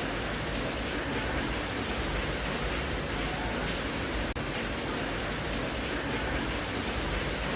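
Steady rain, an even hiss with no distinct drops standing out, broken by a momentary dropout in level about four seconds in.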